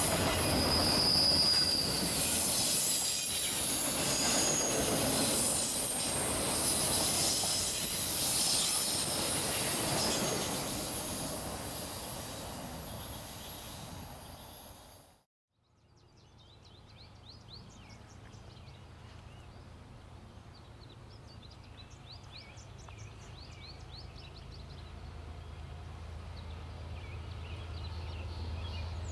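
Freight train of autorack cars rolling past, steel wheels squealing on the rails; the sound cuts off suddenly about halfway through. Then faint bird chirps over the low rumble of approaching CSX diesel locomotives, which slowly grows louder.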